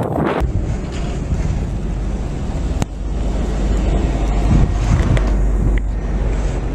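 Blizzard wind buffeting the microphone: a steady low rumble under a rushing hiss, with one sharp click about three seconds in.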